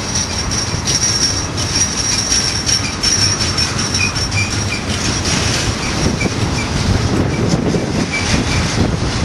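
Container train's freight cars rolling by, their steel wheels squealing against the rails in a steady high-pitched squeal, with a shorter second squeal coming and going over the rumble and clack of the wheels.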